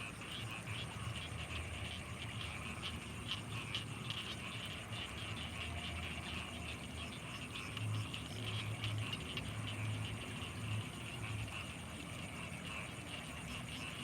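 Night chorus of frogs and insects around rice fields: dense, rapid chirping with a steady high-pitched insect whine above it. A low pulsing sound grows louder for a few seconds past the middle.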